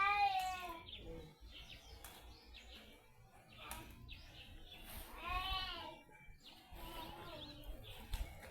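A goat bleating twice, each call about a second long and arching in pitch, about five seconds apart, with a fainter call near the end.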